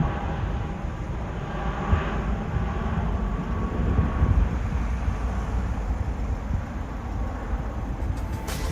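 Jet airliner engine rumble, a deep steady roar. Faint music comes in near the end.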